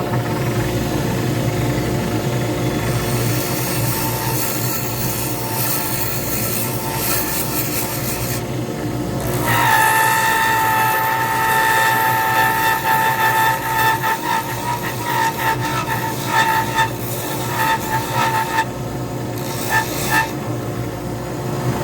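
Lathe running and spinning a resin pen blank while it is being worked, with a steady low motor hum. About ten seconds in, a high-pitched whine joins and holds, wavering and breaking up toward the end.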